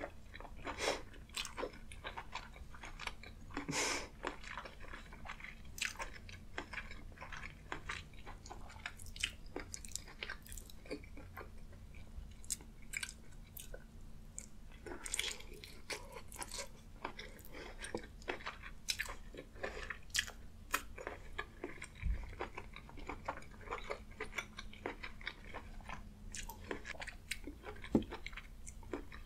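A person biting and chewing food close to the microphone, with many irregular sharp mouth clicks and smacks throughout.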